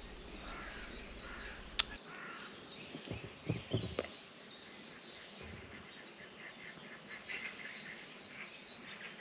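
Faint outdoor ambience with distant birds calling. A sharp click comes about two seconds in, and a few dull thumps follow a second or two later.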